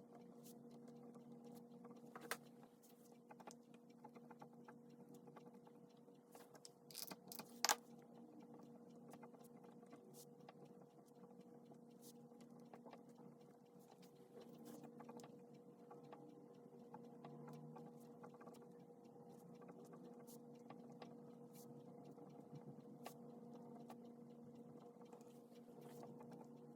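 Faint scratching of a pen writing on paper over a steady low electrical hum, with a few sharp clicks or taps, the loudest a quick pair about seven seconds in.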